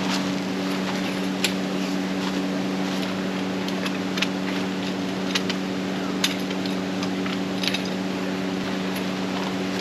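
A small motor humming steadily, with scattered light clicks and taps.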